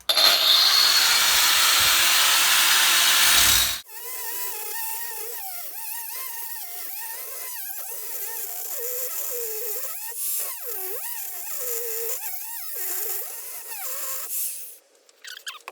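Angle grinder with a diamond disc cutting through a transformer for about four seconds, a loud harsh grinding that stops abruptly. A quieter whine follows, its pitch wavering up and down, and it fades near the end.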